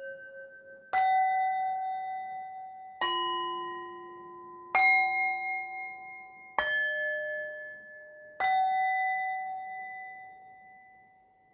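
Bell-like chime tones struck one at a time, five strikes about two seconds apart, each at a different pitch. Each one rings on and fades slowly, and the last dies away near the end.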